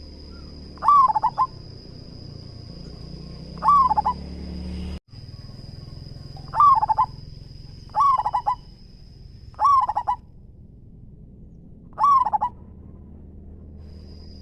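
Zebra dove (perkutut) cooing: six short bursts of quick stuttering coos, a second or two apart. A thin, steady high-pitched tone runs behind them and stops about ten seconds in.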